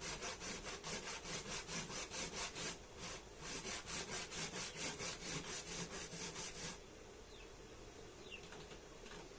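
Food being rubbed back and forth on a hand grater, rhythmic scraping strokes at about five a second, with a short pause about three seconds in. The strokes stop about seven seconds in.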